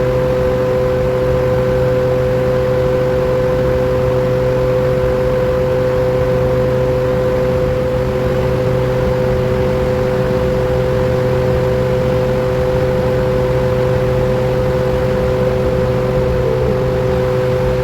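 A 100 HP electric motor driving a grinder machine runs steadily: a constant hum with a steady whine over it. The uploader reports the motor as overloaded, drawing 132 A.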